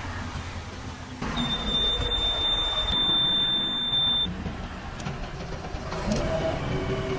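Diesel engine of a JCB 3DX backhoe loader running steadily. About a second in, a single high steady tone joins it and lasts about three seconds before cutting off.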